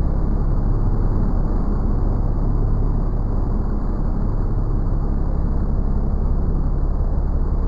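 Toyota Supra exhaust running at a steady idle, a deep even rumble with no revving.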